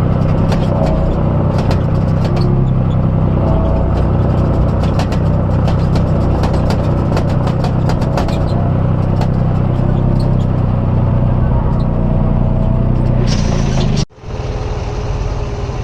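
Diesel engine of heavy earthmoving equipment running steadily, with many short clanks and knocks over it; near the end the sound breaks off abruptly and a quieter engine carries on.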